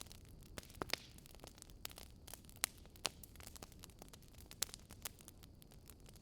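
Faint wood fire crackling: irregular sharp pops and snaps over a low steady rumble.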